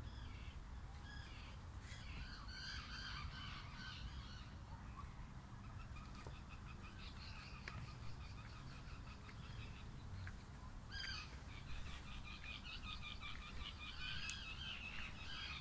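Birds calling repeatedly in short clusters of calls, busiest near the end, over a steady low rumble.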